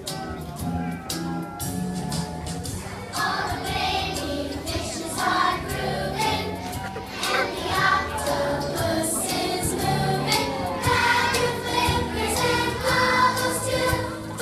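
A group of young children singing together over an instrumental accompaniment; the voices come in about three seconds in, after a few held instrumental notes.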